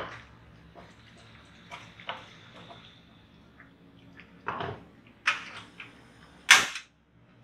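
Chilies sizzling in hot oil in a wok, with several sharp knocks of a utensil against the pan. Near the end comes a sharp click, the loudest sound, as the portable gas stove's knob is turned.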